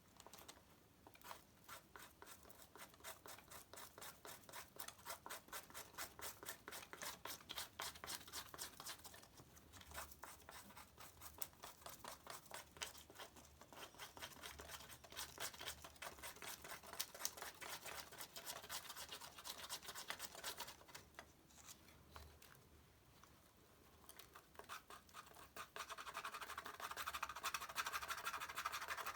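A blade scraping birch bark in quick, rhythmic strokes, several a second, with a few short pauses; this prepares fine tinder to catch a spark. Near the end a louder, steadier rasp takes over.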